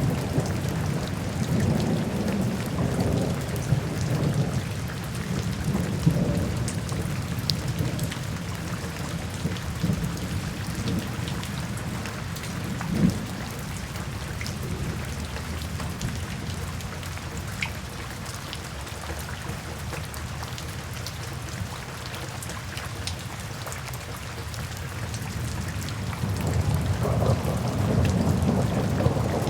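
Steady rain falling on forest foliage, with a low rolling rumble of thunder that eases off about halfway and builds again near the end.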